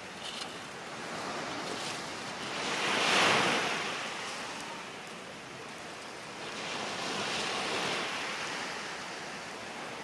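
Sea waves washing onto a beach: a steady rush of surf that swells as a wave breaks about three seconds in, and again more softly a few seconds later.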